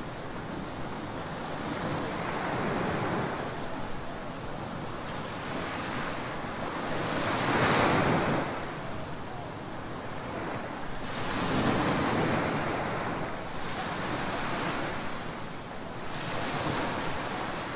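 Ocean surf breaking on a beach: a steady wash of water swelling into louder crashes every few seconds, the strongest about halfway through.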